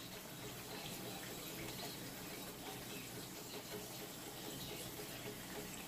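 Faint, steady sizzle of floured potato rounds frying in hot oil.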